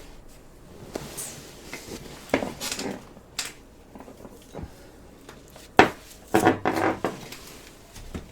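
Knocks, clinks and rubbing of objects being handled and moved about while a light is being adjusted. There are scattered short clatters, and the loudest is a sharp knock about six seconds in, followed by a brief burst of clattering.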